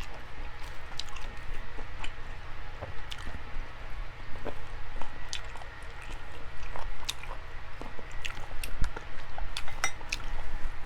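A person chewing food with the mouth open, with irregular wet smacking and clicking sounds.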